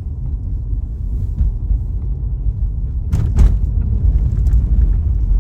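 Car driving along the road, heard from inside: a steady low rumble of tyres and engine, with a brief louder rush about three seconds in.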